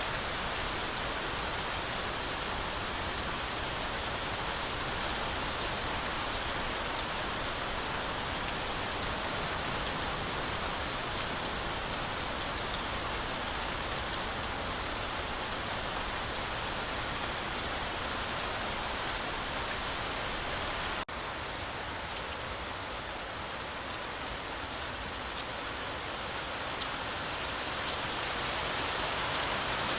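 Heavy rain falling steadily, a dense even hiss of countless drops. About two-thirds of the way through there is a momentary break, after which the rain is a little quieter before building again near the end.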